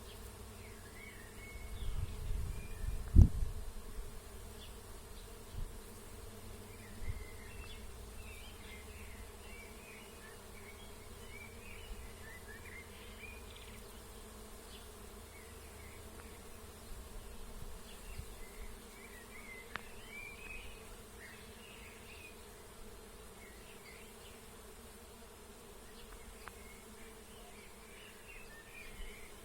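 Bees buzzing steadily while foraging on a plum tree in blossom, with small birds chirping on and off in the background. A low rumble and one sharp thump about three seconds in.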